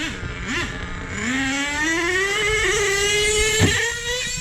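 Small nitro RC truck engine blipping, then revving up high and climbing in pitch as the truck runs flat out. A sharp knock comes about three and a half seconds in, and the engine note falls off after it.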